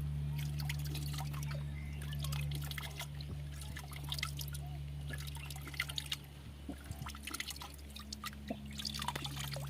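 Water dripping and splashing in many small drops as hands scoop water from a wetland to drink.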